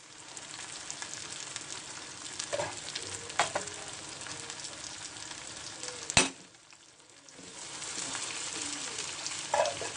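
Onions, green chillies and curry leaves sizzling in hot oil in a pan while a spatula stirs and scrapes them. A few scrapes come a few seconds in. A sharp click comes about six seconds in, after which the sizzle drops away for about a second and then comes back.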